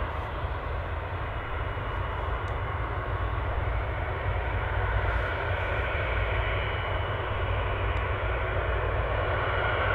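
Jet airliner's engines: a steady rumble with a faint whine, slowly getting louder as the aircraft nears.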